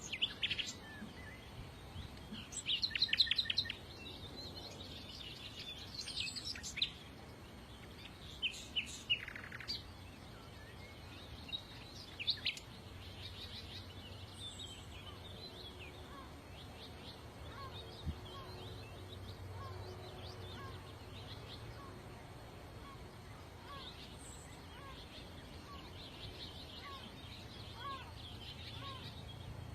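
Several songbirds chirping and singing, with quick trills and twittering that are loudest in the first few seconds. In the second half a short falling note repeats about once a second.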